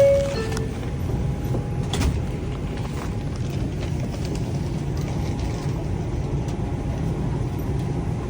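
Steady low road rumble of a car driving through city traffic, heard from inside. A short tone stepping down in pitch sounds right at the start, and a single click comes about two seconds in.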